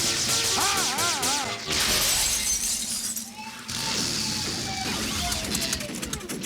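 Cartoon crash and shattering sound effects over background music, with a warbling effect about a second in and falling whistle-like glides in the second half.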